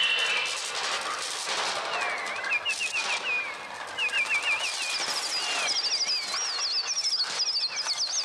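Electronic bird sounds made on the Mixtur-Trautonium: a dense, rapid wing-flapping flutter, with repeated wavering shrieks joining about two seconds in and higher-pitched shrieks from about five seconds in.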